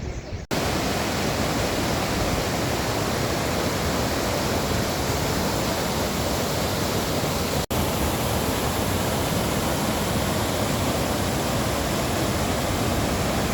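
Mountain stream rushing close by: a steady, even noise of running water that starts abruptly about half a second in and breaks off for an instant near the middle.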